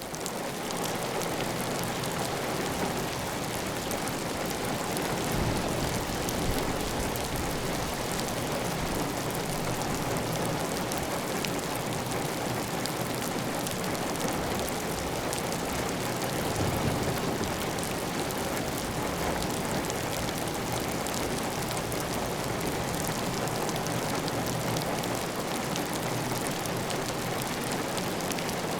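Heavy, steady rain drumming on a clay-tile roof, a dense hiss of drops with water running off the roof edge.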